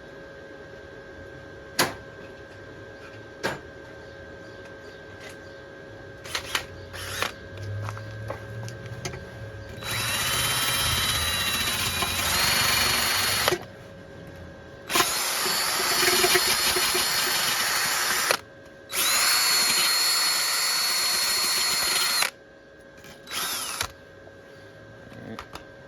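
Electric drill fitted with a wire brush, run in three bursts of a few seconds each and then once briefly near the end, with a steady high motor whine. It is scrubbing fresh welds on a motocross bike's steel frame. A few sharp clicks come before the first run.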